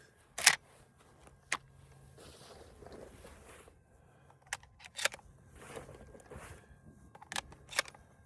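Benelli M2 20-gauge semi-automatic shotgun handled by hand: a series of separate metallic clicks and clacks, the loudest about half a second in, as the action is worked after a failure to feed.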